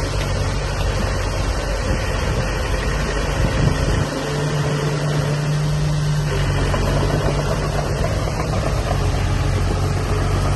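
Diesel engine of a heavy earthmoving machine running steadily; about four seconds in its note changes and settles into a steadier hum.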